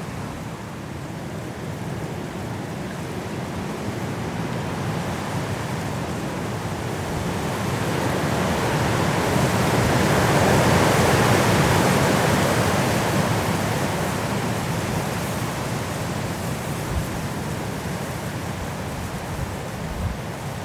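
Strong wind blowing through trees in a snowstorm, a steady rushing that builds into a loud gust about halfway through and then eases off.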